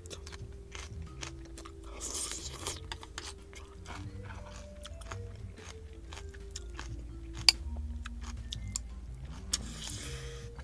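A person chewing stir-fried water spinach and rice close to the microphone, with crunching and many small clicks, and a sharp clink of a metal spoon against the bowl about seven and a half seconds in. Quiet background music plays underneath.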